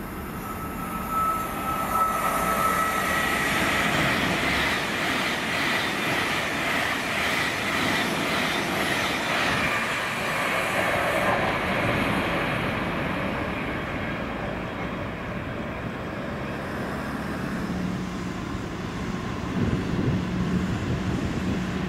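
A train running past on the rails: the rolling noise swells about two seconds in, stays loud for some ten seconds and then slowly dies away. A high whine is heard in the first few seconds.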